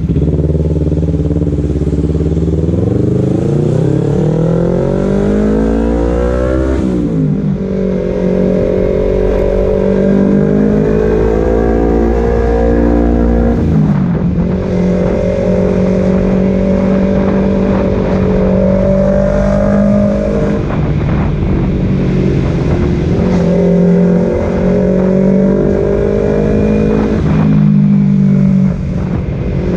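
Kawasaki Z250 motorcycle engine through a Leovince Cobra aftermarket exhaust, running and being revved while warming up after sitting unused for nearly a month. Revs climb over about five seconds and drop back sharply, then are held steady in stretches broken by short dips.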